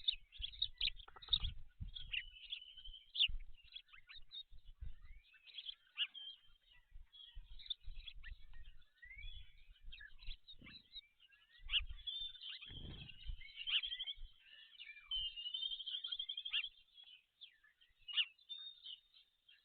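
Several wild birds chirping and calling in short, high, sliding notes, with a fast trill about two-thirds of the way through. Irregular low rumbles and knocks come and go underneath.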